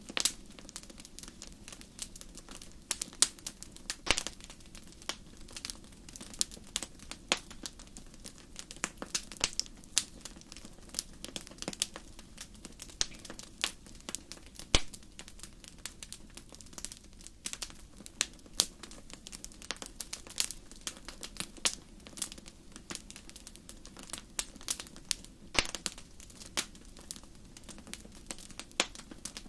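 Wood fire crackling in a fireplace: frequent sharp, irregular pops and snaps over a low steady hiss.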